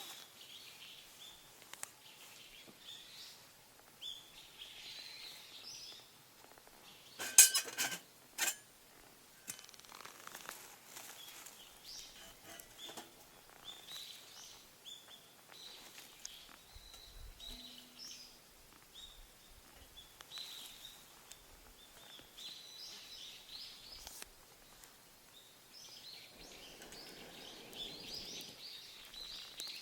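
Small birds chirping and calling at intervals, with a quick cluster of sharp clicks and knocks about seven and a half seconds in and another a second later.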